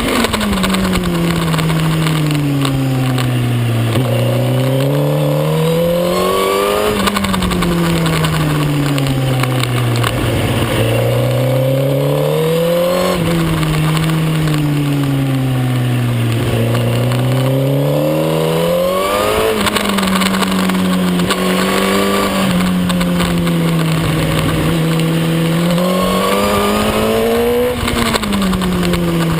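Suzuki GSX-R1000 K9's inline-four engine heard on board at racing speed. Its pitch climbs hard and falls back again and again, about four times, as the bike accelerates out of corners and slows for the next.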